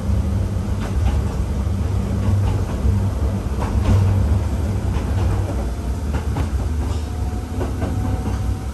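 Hakone Tozan Railway 1000 series electric train running uphill, a steady low rumble with occasional clicks of the wheels over the track.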